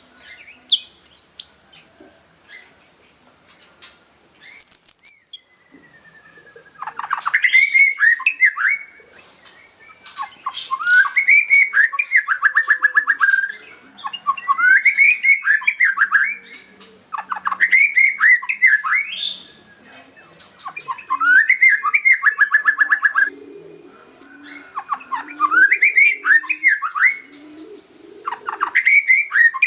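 Young white-rumped shama (murai batu), just past its spotted juvenile stage, singing a series of phrases of sweeping whistled notes, each a second or two long, some ending in a rapid trill. The phrases start about seven seconds in and repeat every few seconds. A steady high-pitched tone runs beneath.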